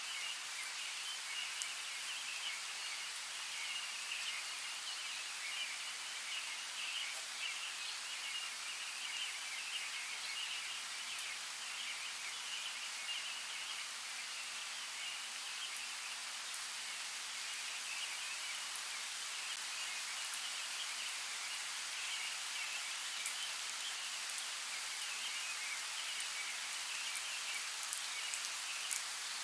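Steady rain falling, with scattered sharp drop ticks, under a continuous high trilling chorus of small night animals.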